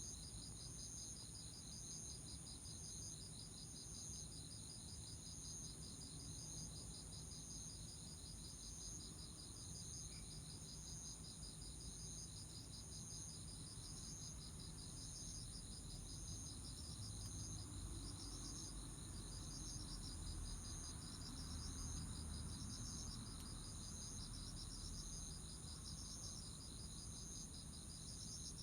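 Chorus of autumn insects singing: several overlapping high, steady trills, with one chirp pulsing at an even pace.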